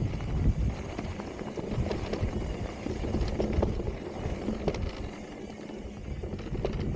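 Electric mountain bike rolling fast over loose, rocky dirt singletrack: tyres crunching and clattering over stones, with a steady low rumble of wind on the helmet camera microphone.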